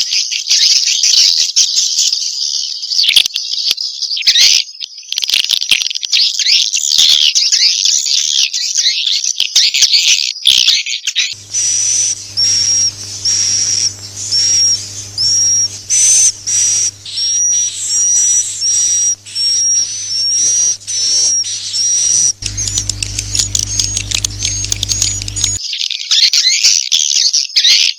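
Swiftlet roosting lure call ('walet inap'): dense, high twittering chirps of edible-nest swiftlets. After about eleven seconds it changes, for about fourteen seconds, to a regular run of short high chirps, about one and a half a second, over a low steady hum.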